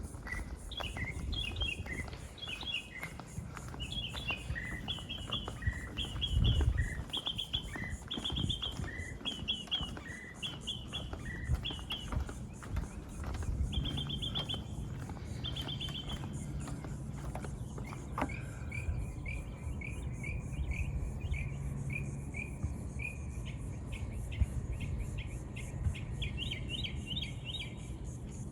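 Songbirds singing: repeated two-part chirps for the first half, then a quicker run of short, evenly spaced notes, over a low rumbling noise.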